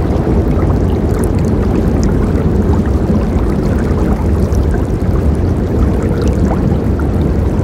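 A forest river flowing steadily: a deep, continuous rush of water with small splashes and trickles scattered over it.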